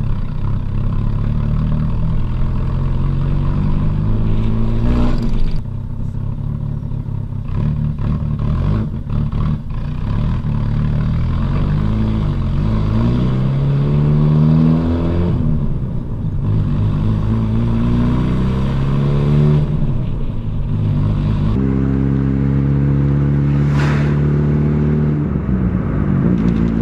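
Honda Prelude engine accelerating through the gears, its note climbing and then dropping back at each of several gear changes, before holding a steady pitch near the end.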